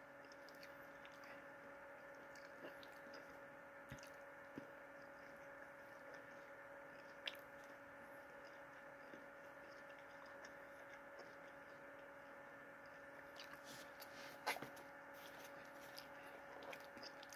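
Near silence: a person quietly chewing food, with a few small clicks and mouth sounds, the most noticeable about 14.5 seconds in. A faint steady hum of room tone runs underneath.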